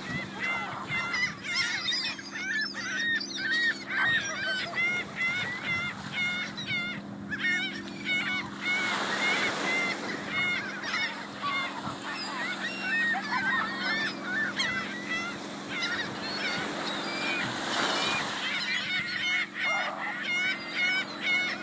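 A flock of gulls calling over one another nonstop, many short squawks overlapping, with a steady low hum underneath.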